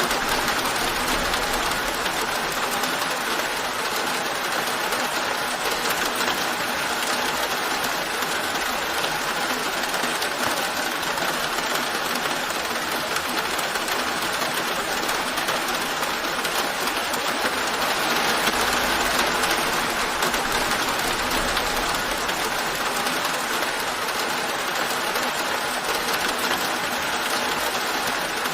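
Steady rain falling, an even hiss with no breaks, and a faint low rumble swelling twice.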